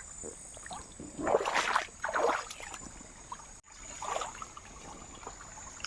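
Shallow river water splashing and trickling in a few short bursts, about a second in and again near four seconds.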